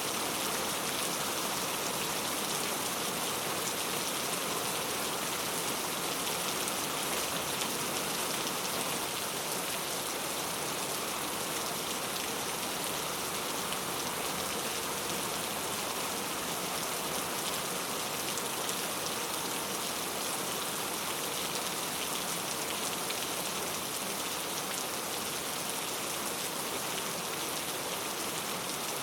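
Heavy rain falling on mango tree leaves, a steady, even hiss of dense drops.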